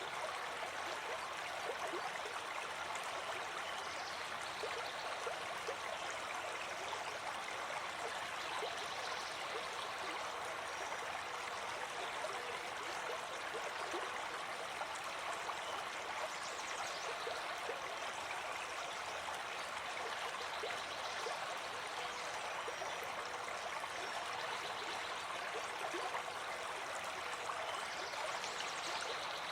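Running water flowing steadily, an even rush with small splashes and gurgles, like a stream.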